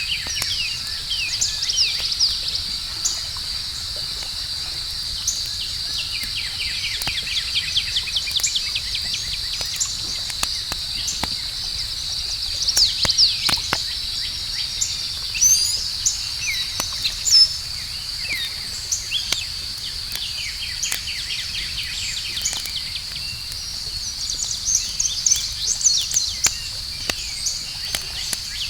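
Outdoor campfire crackling with scattered sharp pops, under a steady high-pitched insect trill and runs of quick chirping calls that come and go.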